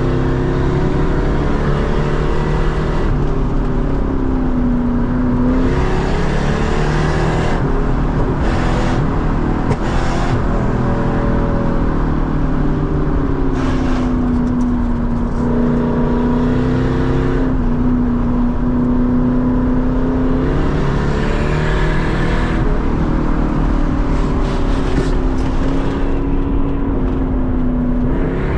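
Lexus SC400's 4.0-litre V8 with a loud exhaust under way, its revs rising and falling several times as it accelerates and eases off.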